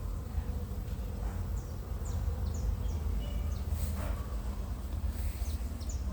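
A swarm of jataí stingless bees buzzing around their new nest entrance in a wall, over a steady low rumble. A few short, faint, high chirps come and go.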